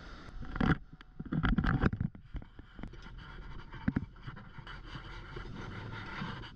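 Steady rumble inside a running Mugunghwa-ho passenger train. A louder clatter comes about half a second in and again between about one and two seconds in as the push-button automatic door between cars opens, with a few sharp knocks near the middle as someone walks through the vestibule.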